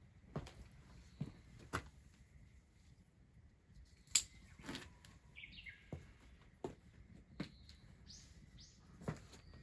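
Faint, irregular clicks and knocks, the sharpest about four seconds in, with a few short bird chirps around the middle and again near the end.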